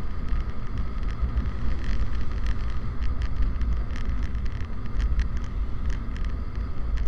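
Motorcycle running on the road, with a steady low engine and road rumble under heavy wind buffeting on the microphone.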